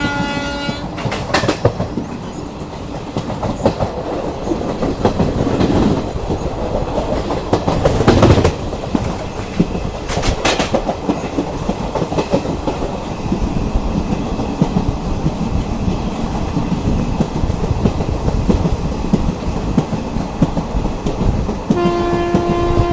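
Train running on the rails: a steady rumble with clickety-clack and occasional knocks from the wheels and cars. A train horn sounds briefly at the very start and again near the end, a steady held tone.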